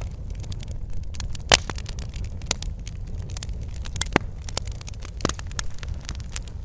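Wood fire crackling in a fireplace: a steady low rumble of flames with irregular sharp pops and snaps, the loudest about a second and a half in.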